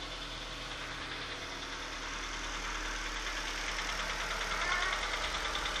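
Chevrolet Astra 2.0 engine running cold just after start-up, with a fast metallic ticking over the steady running that gets a little louder in the second half. The owner calls it a strange noise that the engine makes while still cold.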